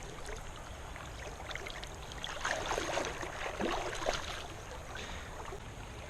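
Creek water running steadily, with about two seconds of louder splashing and sloshing near the middle.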